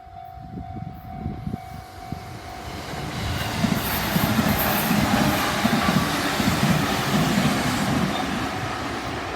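Train passing over a level crossing on the Tokaido Main Line. The rumble and wheel clatter build about three seconds in and stay loud. Early on a steady crossing warning-bell tone can be heard, and the train noise then drowns it.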